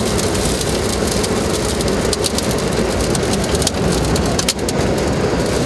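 Heavy wind-driven rain pounding the windshield and body of a moving vehicle, heard from inside the cabin, with many sharp ticks of drops striking the glass and metal.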